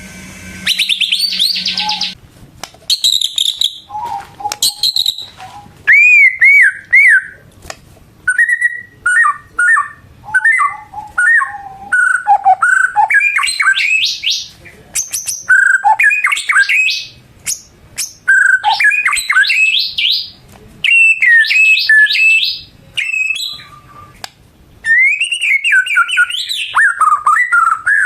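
White-rumped shama singing: loud, varied phrases of clear whistles, quick note runs and rising sweeps, one after another with short pauses between.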